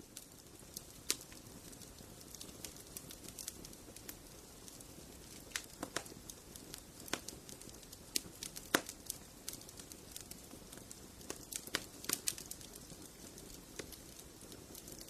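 Fireplace fire crackling: a soft steady hiss with irregular sharp pops and snaps, one louder pop a little past the middle.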